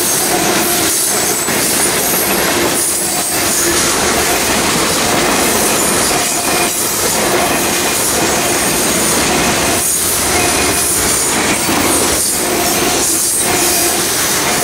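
Norfolk Southern freight train's tank cars and boxcars rolling past at close range, steel wheels on rail making a loud, steady rumble and clatter. A faint pitched wheel squeal comes and goes over it.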